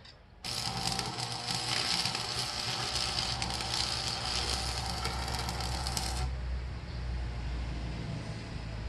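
Electric arc welding: a dense, steady crackle of the welding arc that starts sharply about half a second in and cuts off a little after six seconds, over a steady low hum.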